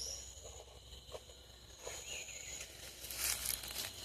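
Insects calling in steady high, thin tones, with faint rustling and a few soft short sounds.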